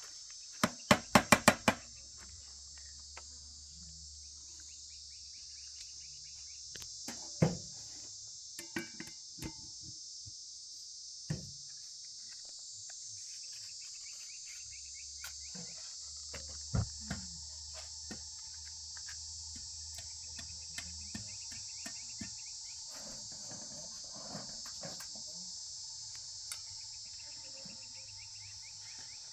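Steady high-pitched insect chorus, like crickets, with a quick run of about six sharp knocks about a second in and a few scattered single knocks afterwards.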